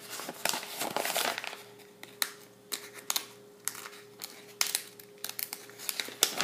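Paper and plastic rustling and crinkling as the instruction sheet and contents of a plastic model kit box are handled, densest about half a second to a second and a half in, followed by scattered light clicks and taps.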